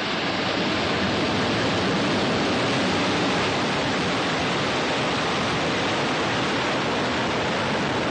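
Falcon 9 rocket's first-stage Merlin engines at full thrust just after liftoff: a steady, dense rush of noise that swells slightly in the first second and then holds level.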